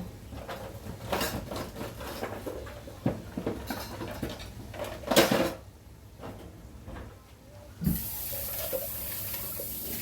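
Knocks and clatter of kitchen dishes being handled, the loudest knock about five seconds in. About eight seconds in, a kitchen tap is turned on and water runs steadily.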